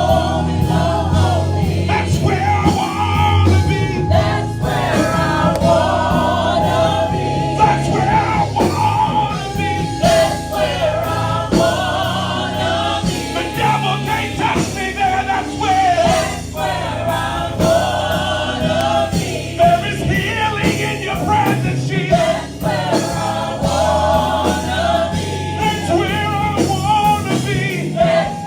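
Gospel worship music: voices singing over instrumental accompaniment.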